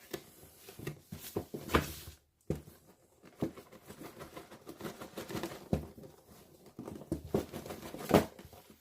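A model kit's cardboard box and plastic-bagged parts being opened and handled: irregular rustling and crinkling with small clicks, and a couple of sharper knocks.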